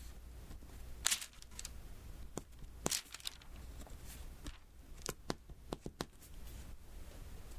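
Diamond-painting pen pressing small beads onto the sticky, glue-coated canvas one at a time: an irregular series of small sharp taps and clicks.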